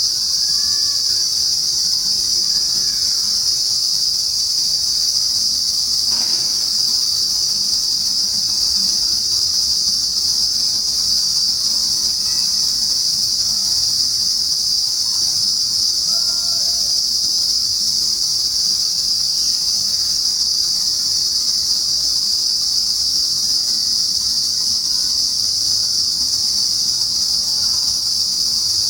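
Dense, unbroken high-pitched chorus of insects in trees, steady in level throughout, with a few faint short chirps underneath.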